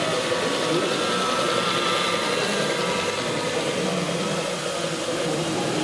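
Steady engine-like running sound, idle-like with a few sustained tones, from an RC model truck or tractor, over a steady hall background hiss.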